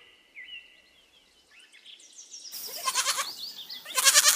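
A young farm animal bleating: two loud, trembling bleats, the first about halfway through and a louder one near the end, with faint bird chirps behind.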